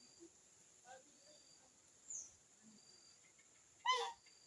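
Birds calling at a feeding tray: a short high note repeats about every second and a half over a steady high hiss, and about four seconds in one bird gives a loud, brief chirping call.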